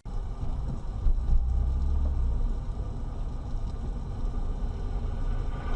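Car driving, a steady low rumble of engine and road noise that starts abruptly, with a couple of brief bumps about a second in.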